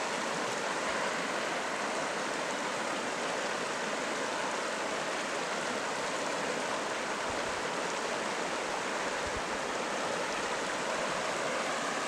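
Steady rushing of fast-flowing water close by, an even unbroken hiss.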